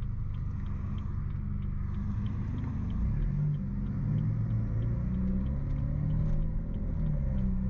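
BMW F30 328i's turbocharged four-cylinder with a stage 2 tune and an aftermarket downpipe exhaust, rumbling at low revs while driving. The pitch wavers up and down slightly with the throttle.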